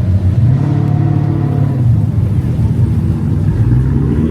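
A car engine running with a loud, deep note. Its revs rise a little about half a second in and settle back down around two seconds in.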